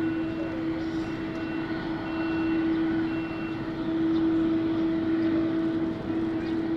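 Jet airliner's engines running with a steady whine over a broad rush, holding one pitch throughout.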